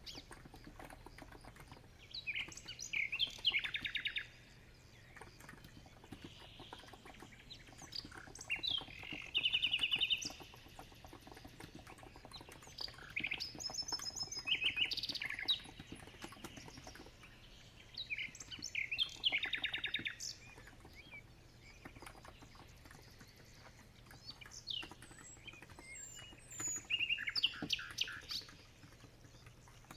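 Birds chirping in short bursts of rapid trills every few seconds. Under them runs a soft, steady clicking of typing on a COX Empress electro-capacitive keyboard.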